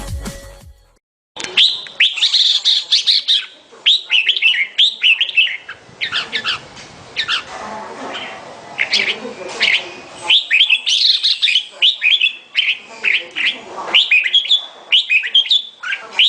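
Red-whiskered bulbul singing: quick, bright chirping phrases, repeated with short breaks. It starts about a second and a half in, after a burst of electronic music cuts off.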